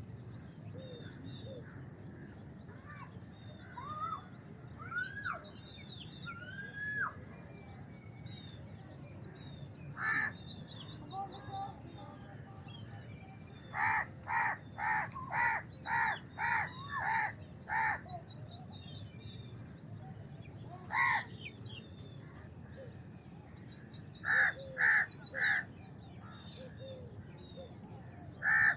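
House crows cawing in harsh calls, including a quick run of about eight caws in the middle and a run of three near the end. Smaller birds chirp constantly behind them.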